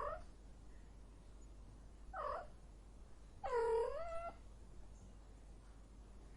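A cat meowing three times: a short call at the start, another about two seconds in, and a longer, louder one about three and a half seconds in.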